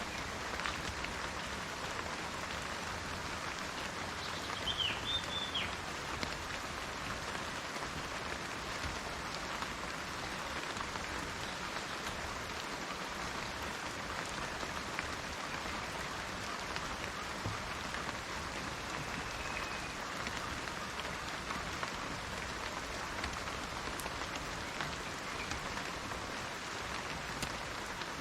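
Steady rain falling on garden plants and trees, an even hiss of many drops. A bird gives a short chirping call about five seconds in.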